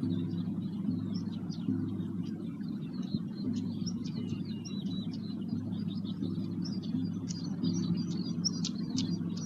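A low, steady droning tone with several overtones, changing in blocks of about a second, from a sound-bath instrument. Many small birds chirp and twitter over it.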